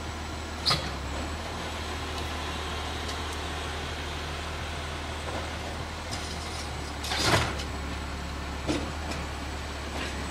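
Garbage truck engine running steadily with a low hum, with a few sharp knocks and clanks. The loudest comes about seven seconds in, with a brief rush of noise.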